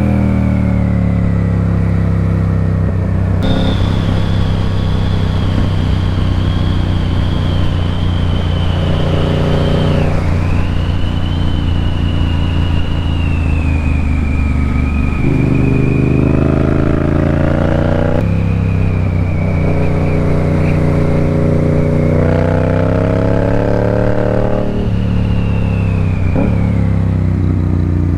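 Motorcycle engine running on the road, climbing in pitch through the gears and dropping back at each shift several times, over steady road noise.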